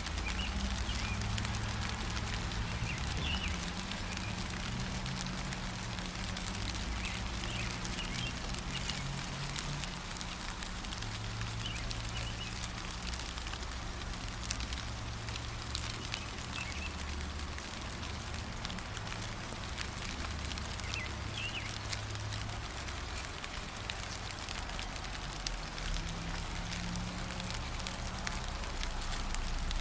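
Steady gentle rain with a fine patter of drops, a few short faint bird chirps now and then, and a low rumble underneath.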